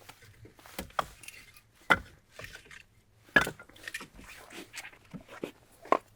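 Objects being handled in a small room: a string of sharp knocks and clatters, four louder ones among softer rustling and tapping.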